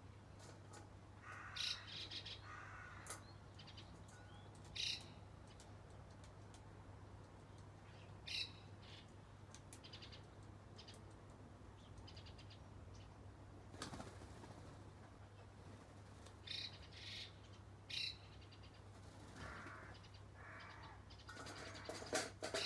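Small wild birds chirping in short, scattered calls every few seconds, over a steady low hum.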